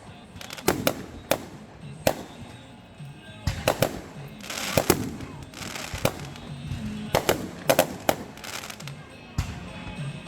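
Fireworks going off: a string of sharp bangs, some singly and some in quick clusters, with bursts of crackling about a third of the way in and again past the middle.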